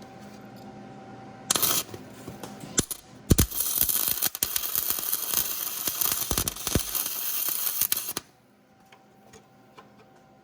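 Electric welding arc crackling: a short burst of under a second, then about five seconds of steady sizzling crackle with sharp pops, cut off abruptly. This is weld being laid onto a broken exhaust manifold stud so that it can be worked loose.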